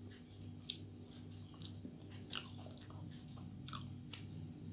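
A person chewing a bite of fried brinjal close to the microphone, with soft wet mouth clicks and smacks, the sharpest about a second in, near the middle and near the end. A steady low hum and a thin high whine sit underneath.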